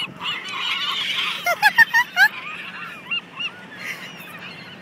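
A flock of seagulls calling, many short cries overlapping, with a burst of loud calls about one and a half to two seconds in.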